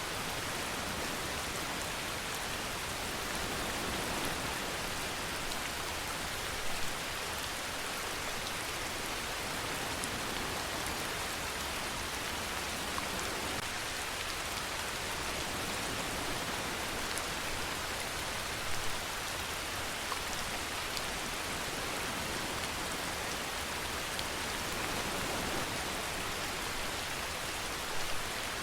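Steady rainfall, an even hiss with a few louder drop ticks now and then.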